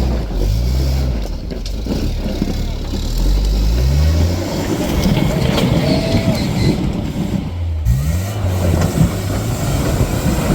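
Off-road 4x4 truck engine revving in short rising pulls under load. A stretch of rough crackling and clatter fills the middle.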